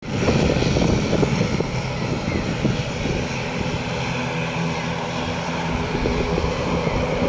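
Aircraft engine noise: a loud, steady sound with a low hum.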